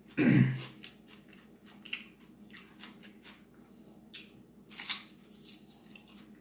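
Mouth sounds of eating a mouthful of puttu and fish curry: scattered wet clicks and crunches of biting and chewing. A brief, louder voiced sound comes right at the start.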